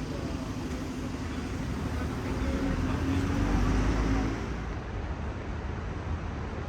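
Street traffic: a motor vehicle drives past with a steady engine hum, loudest about three to four seconds in, over a constant low rumble of road noise.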